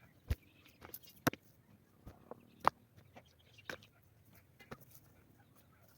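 A series of irregular sharp clicks and knocks, the loudest about a third of a second, a second and a quarter, and two and three-quarter seconds in.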